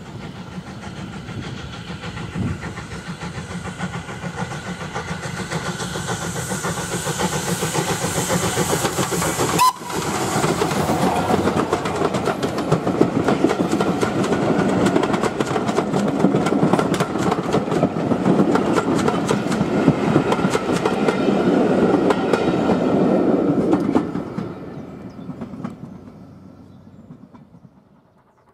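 A steam-hauled train of passenger coaches approaching and passing close by, its wheels clattering over the rail joints. The sound grows steadily louder, then fades quickly in the last few seconds as the train goes away.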